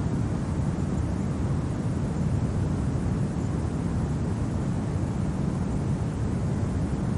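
Steady low, rumbling rush of winter wind, even throughout with no distinct events.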